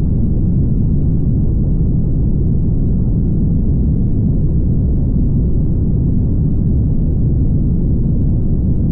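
Steady low rumble of a car driving at highway speed, road and wind noise with no changes in level.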